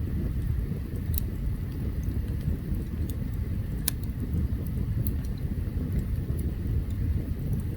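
Open campfire burning: a steady low rumble with sharp crackles and pops now and then, the loudest about four seconds in.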